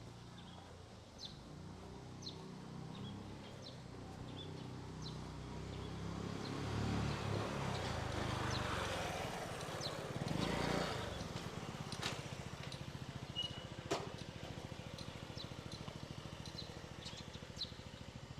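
A vehicle passing along the street, its engine and tyre noise swelling to a peak about ten seconds in and then fading away. Birds chirp in short calls throughout.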